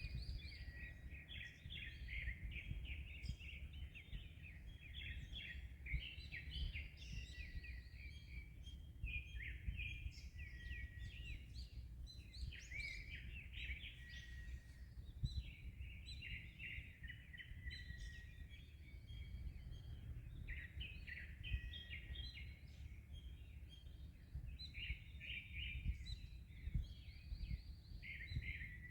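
Several small birds chirping and twittering without a break, over a steady low rumble of wind and sea waves.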